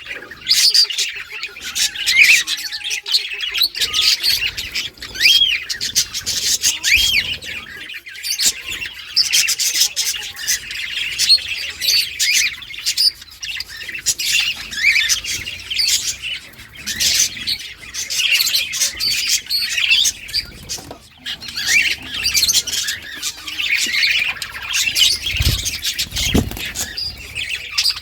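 A flock of budgerigars chirping, warbling and squawking together in a continuous chatter of short rising and falling notes, with a couple of low thumps near the end.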